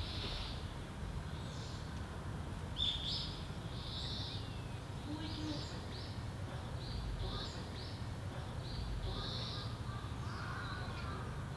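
Wild birds calling: a run of short, high-pitched calls, roughly one or two a second, over a low steady background rumble.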